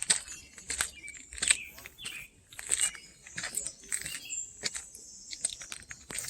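Dry forest litter crunching and crackling in irregular snaps, with songbirds chirping now and then.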